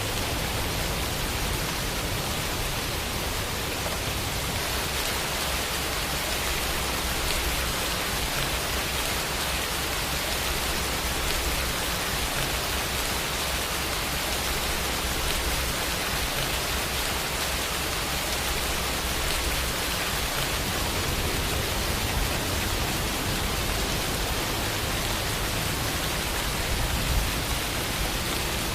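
Steady rain falling, a dense even hiss of many drops with no single drops standing out; a brief slightly louder patch comes near the end.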